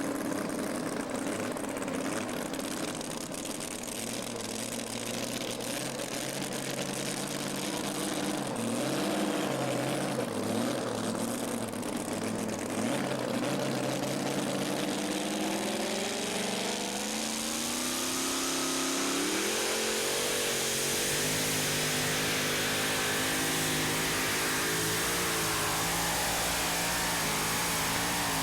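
Tractor-pull vehicle's racing engine running under load. Its pitch climbs to a higher, steadier note a little past the halfway mark as it revs up.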